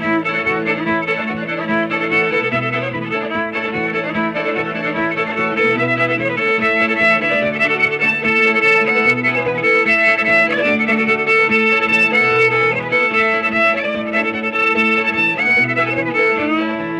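Instrumental break of a country song: a fiddle playing the lead over guitar and a bass line that steps between notes.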